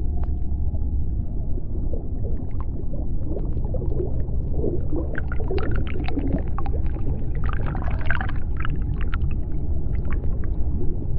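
Underwater sea-floor ambience: a steady low rumble with scattered sharp clicks. Wavering, squeaky calls rise in the middle and climb higher in pitch about eight seconds in.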